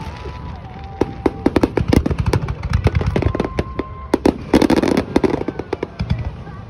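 Aerial fireworks display in full barrage: many sharp bangs and crackling shell bursts in quick succession, thickest about four and a half seconds in, then thinning out near the end.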